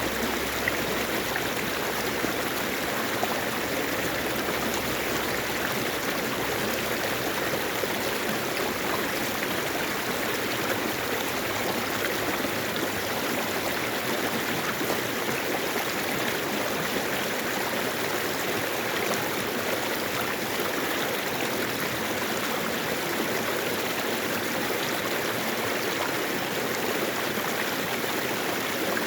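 Mountain stream flowing over rocks: a steady, unbroken rush of running water.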